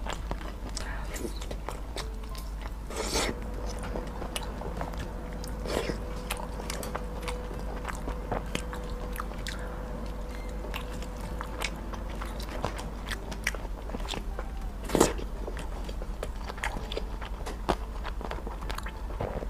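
Close-miked chewing and biting of skewered teriyaki meatballs with crunchy cartilage inside, with scattered sharp crunches, the loudest about fifteen seconds in.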